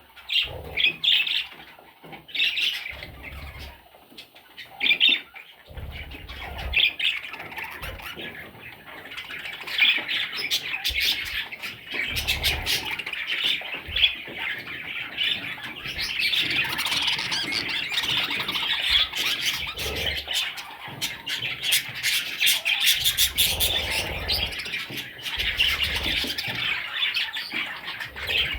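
Pet budgerigars chattering, with many short chirps and squawks; the chatter grows denser and near-continuous about halfway through.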